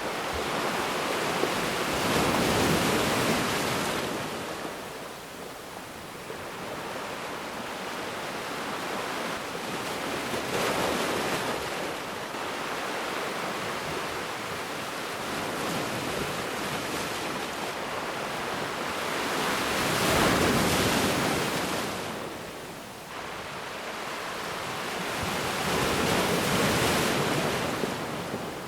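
Ocean waves breaking on a beach, the surf swelling and fading in slow surges, about four of them, the loudest around twenty seconds in.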